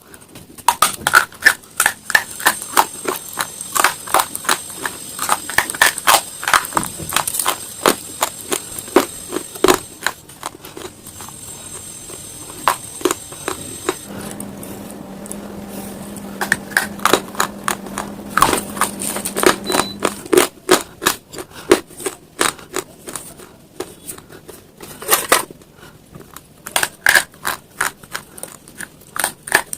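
Slate stone being bitten and chewed close to the microphone: dense, irregular sharp crunches and cracks. The crunching thins for a few seconds in the middle, where a steady low hum comes in.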